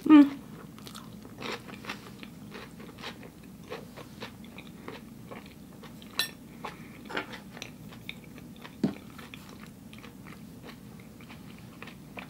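A person chewing a spoonful of food with small crunches and wet mouth clicks. There is a brief loud mouth sound as the spoon goes in at the start, and a sharper click about six seconds in.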